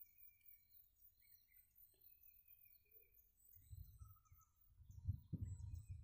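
Faint outdoor ambience of scattered short bird chirps, with low rumbles on the microphone about four seconds in and again near the end.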